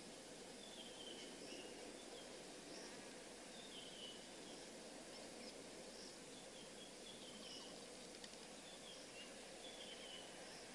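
Faint outdoor ambience: a steady hiss with small, distant chirps, short falling calls recurring every second or two.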